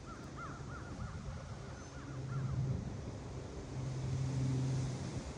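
A bird calling a rapid series of short, rising-and-falling notes, about four a second, for the first two seconds or so. Under it a low steady hum swells twice, in the middle and near the end.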